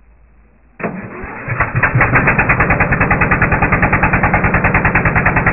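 Garden tractor's 14.5 hp Briggs & Stratton OHV engine being started: the starter cranks briefly about a second in, the engine catches within a second, and it then runs loud with a steady, even beat.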